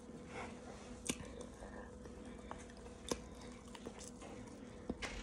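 Close-up chewing of a mouthful of raw cornstarch, with two sharp clicks about one and three seconds in.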